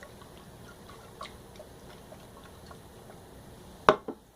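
Capped glass mason jar being handled: a few faint taps, then one sharp click near the end.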